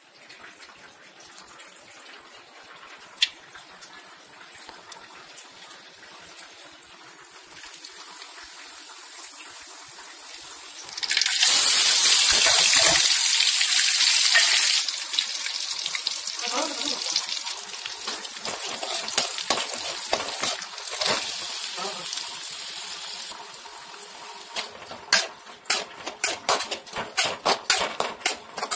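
Oil sizzling in a wok with whole spices and a paste frying; the sizzle surges loudly for a few seconds about eleven seconds in, then settles. Near the end a metal spatula scrapes and clicks rapidly against the pan as sliced onions are stirred.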